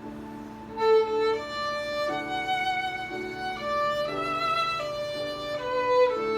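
A violin playing a slow melody of held notes with vibrato over a soft, steady accompaniment. The violin comes in about a second in, with a louder note near the end.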